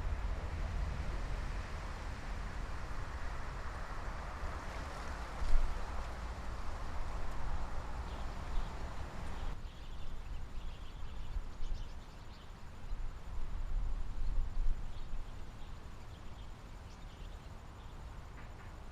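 Wind buffeting a GoPro Hero3 camera's microphone behind a homemade fur windshield, a steady low rumble with a hiss above it. The hiss drops away suddenly about halfway through, leaving the rumble and faint scattered ticks.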